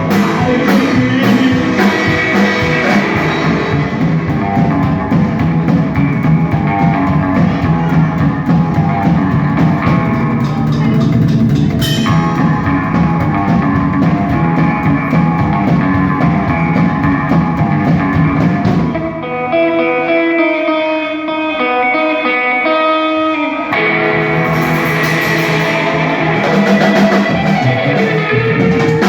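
A rock band playing live, with guitar over drum kit and bass. About two-thirds of the way through, the drums and bass drop out for about five seconds, leaving the guitar playing alone, then the full band comes back in.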